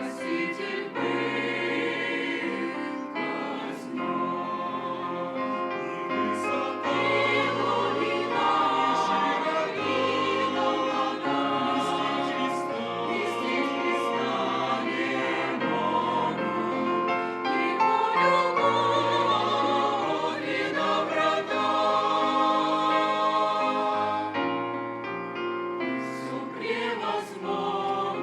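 Church choir singing a Christian hymn in harmony, over a sustained bass accompaniment that moves in long held notes.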